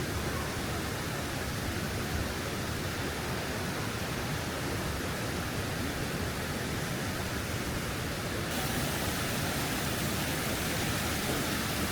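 Steady rushing roar of a waterfall, an even hiss without breaks that grows slightly brighter and louder about eight seconds in.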